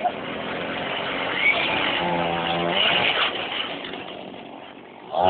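Small motorbike engine running, its sound building over the first few seconds and then fading away.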